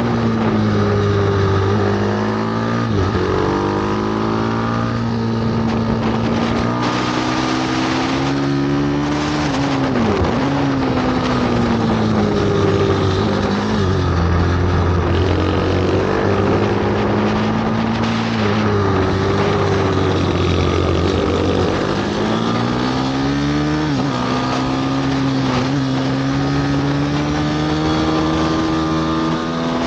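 Bucci F6 pit bike engine revving hard as it is ridden round a track. The pitch climbs steadily through each gear and drops sharply at shifts or when the throttle is closed, several times over.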